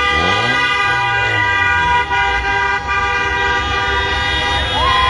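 Many vehicle horns honking at once, several tones held and overlapping, over the low rumble of engines. Near the end a new horn tone slides up and holds.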